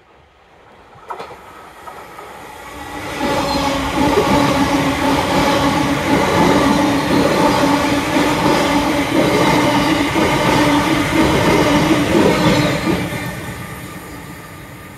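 Elizabeth line Class 345 electric multiple unit running past the platform: the wheel-on-rail rumble builds over the first few seconds, stays loud with a steady electric whine for about nine seconds, then fades near the end.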